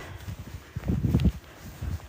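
Footsteps in deep snow, a few soft muffled thuds.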